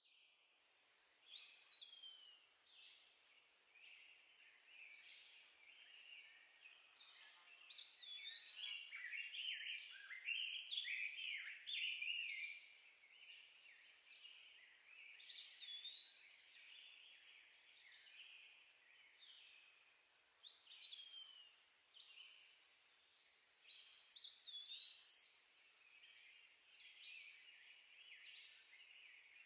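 Several woodland songbirds singing at once, faint, with clear whistled phrases and quick high trilled songs that come back again every several seconds.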